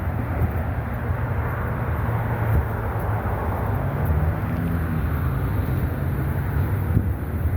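Steady road traffic on a busy avenue: a continuous low rumble of car and truck engines and tyres, with one vehicle's engine drone standing out about four seconds in.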